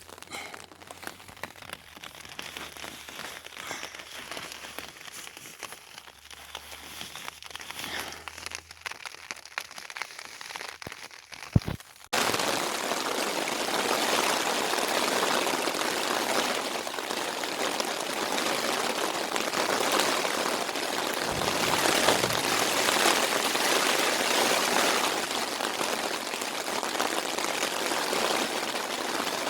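Heavy rain falling, a steady dense hiss that starts abruptly about twelve seconds in, after faint scattered crackles and a single thump.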